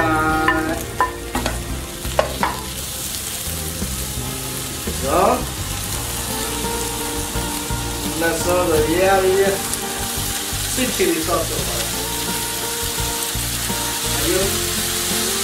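Chicken meatballs and onions sizzling as they fry in oil in a nonstick pan, with a few sharp knocks in the first few seconds as the meatballs go in and are stirred.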